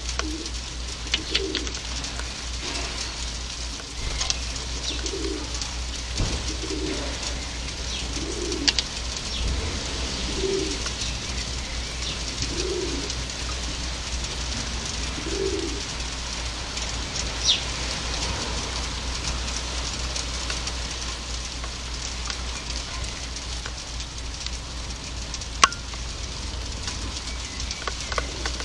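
A pigeon cooing, a repeated phrase of low soft notes for roughly the first sixteen seconds, over a steady hiss with scattered sharp clicks.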